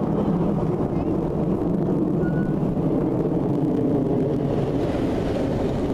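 Aircraft engines making a steady low rumble that holds the same level throughout.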